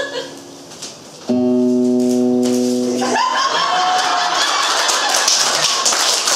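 A song's final chord held on an instrument for about two seconds and cut off, followed by audience applause with shouts.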